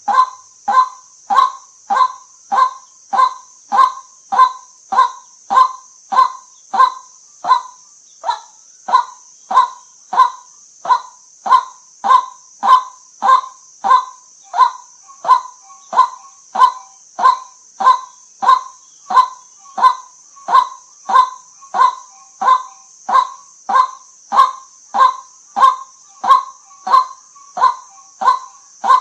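White-breasted waterhen giving its monotonous "kwak" call over and over, a little under two calls a second, with one brief pause partway through. A steady high hiss runs behind the calls.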